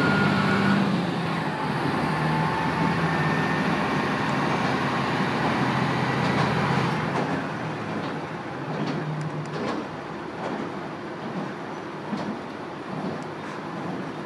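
Amagi Railway diesel railcar running along the line, heard from inside the car: an engine hum over wheel and rail noise. About seven seconds in the engine tone falls away and the sound gets quieter, leaving the rumble of the wheels with faint clicks over rail joints.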